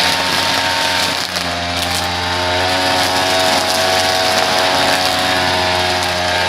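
Small petrol engine of lawn-care equipment running steadily at high speed, with a brief dip about a second in.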